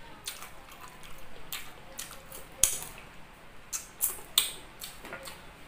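Close-up wet mouth sounds of a person eating boiled chicken feet: chewing and lip smacks, heard as a string of sharp, irregular smacks, the loudest about two and a half seconds in.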